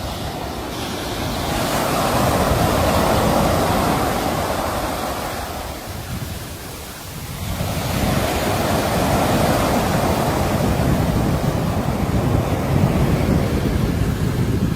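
Sea waves breaking and washing ashore. One wave swells and rushes in over the first few seconds and ebbs away about seven seconds in, then a second builds and keeps washing on.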